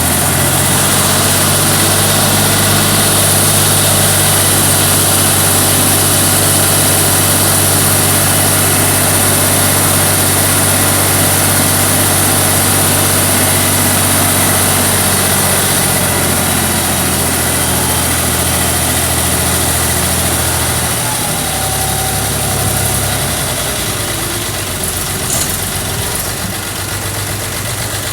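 Diesel tractor engine running steadily while the hydraulic tipper dumps earth. Its note changes and the engine runs a little quieter about 21 seconds in.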